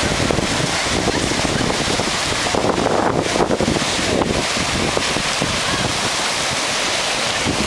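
Surf washing on a beach, with wind rushing over the microphone, a steady noise that swells briefly about three seconds in.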